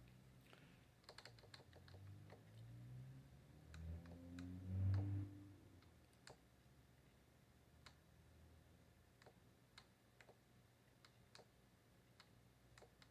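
Faint, sparse clicks of computer keys at an uneven pace, about one a second, with a brief low murmur that rises in pitch about four to five seconds in.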